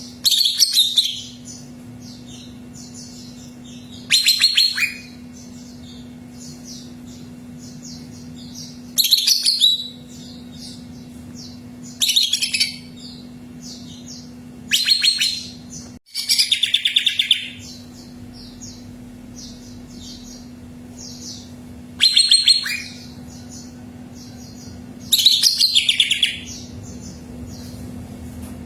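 Cucak ijo (green leafbird) singing: about eight loud, rapid, high-pitched phrases a few seconds apart, with softer chirping between them, over a steady low hum.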